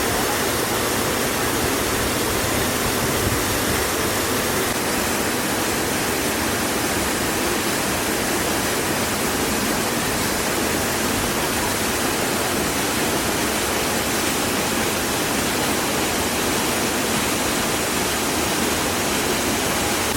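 A waterfall rushing, a steady, even wash of falling water that does not change.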